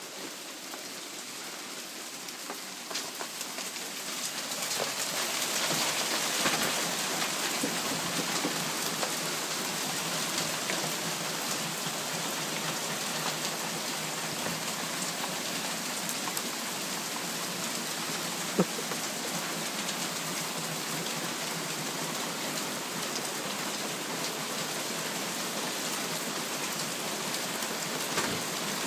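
Heavy rain and hail pouring down and pelting the ground, a dense steady hiss that builds over the first few seconds. Scattered sharp ticks of single impacts run through it, and one louder hit comes about two-thirds of the way through.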